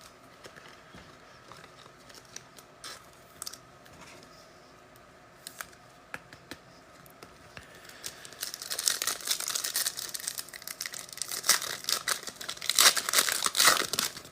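A few faint clicks of cards being handled, then, from about eight seconds in, a trading-card pack wrapper being torn open and crinkled, growing louder toward the end.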